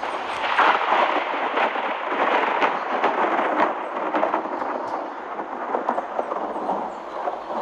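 A dense, crackling patter of many small rapid impacts, swelling about half a second in and easing off in the second half.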